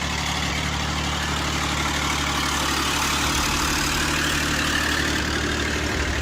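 Heavy logging truck's engine running steadily under load as it drives through muddy water: a low, steady engine drone with an even hiss over it.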